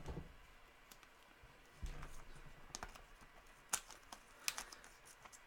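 Faint clicks and light handling noise, with a few sharper clicks past the middle.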